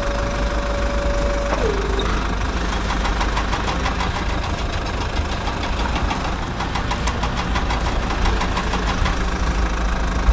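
Small electric toy motor whining steadily, dropping in pitch about a second and a half in as it bogs down under load, then stopping; a run of rapid, even mechanical clicks or rattling follows.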